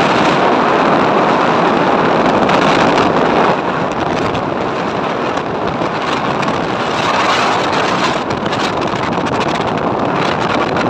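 Loud, steady rushing noise with no distinct tones, dropping a little about three and a half seconds in.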